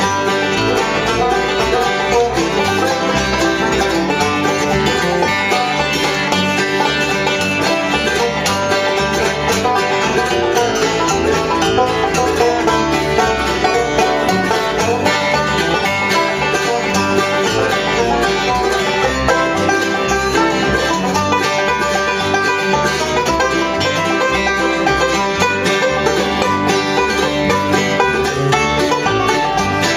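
Live bluegrass band playing an instrumental passage, with banjo and guitar picking over a steady bass beat.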